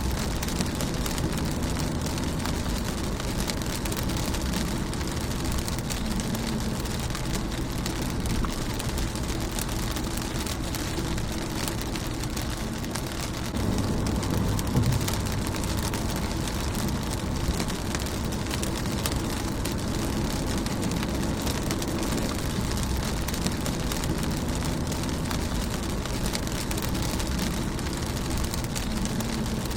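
Steady rain falling on a car's windshield, with many individual drops tapping on the glass over a low rumble. It grows slightly louder for a couple of seconds about 14 seconds in.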